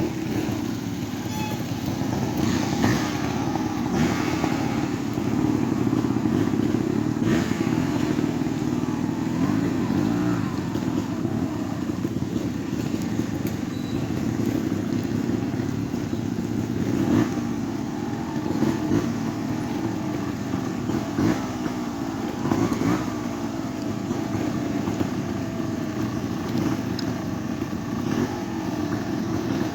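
Trials motorcycle engine running at low revs, its pitch rising and falling as the throttle is worked, with several sharp knocks along the way.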